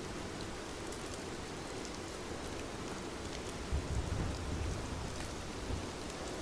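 Steady rain falling, with scattered drops ticking. A low rumble rises a little past the middle and lasts about two seconds.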